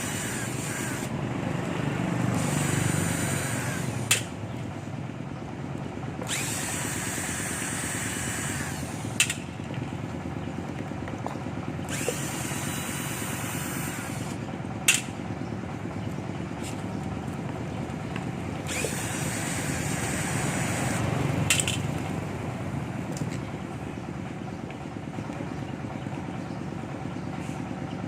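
A power tool runs in repeated bursts of two to three seconds, over steady low workshop noise. There is a sharp click after most bursts.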